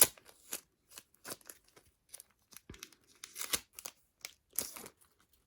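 Aluminium foil crinkling and tearing in short, irregular bursts as it is carefully unwrapped from a photocard.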